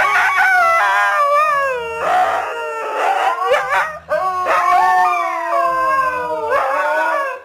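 Dog howling: long, drawn-out howls that slide down and up in pitch, with short breaks about two and four seconds in, cutting off just before the end.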